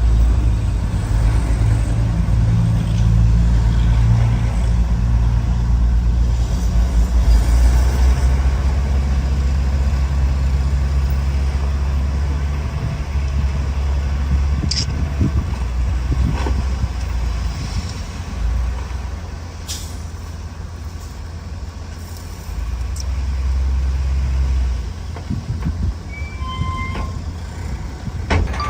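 Heavy diesel construction machinery running: the deep engine drone of a bulldozer and dump trucks at work, easing somewhat about two-thirds of the way through and then picking up again, with a few short sharp hisses or clicks.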